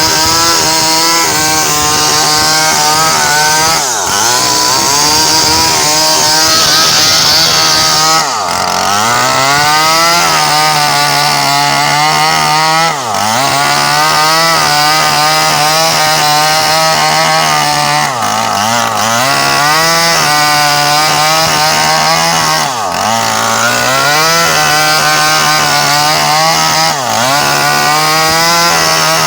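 Small Stihl two-stroke chainsaw running at high revs while sawing a coconut palm trunk into lumber. The engine pitch dips sharply and recovers about every four to five seconds.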